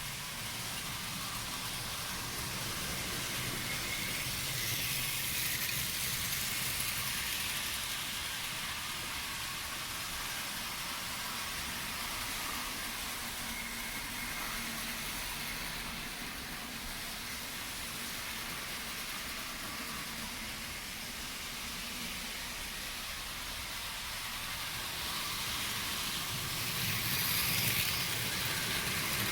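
Trix Warship model locomotive hauling a freight train on Hornby Dublo track: a steady whirr of the electric motor with the rattle of wagon wheels on the rails. It grows louder twice as the train passes close by, about five seconds in and again near the end.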